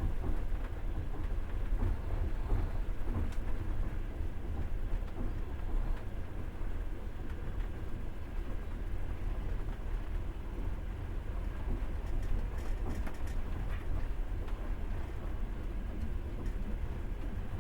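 Passenger train in motion, heard from inside the carriage: a steady low rumble of wheels on rails.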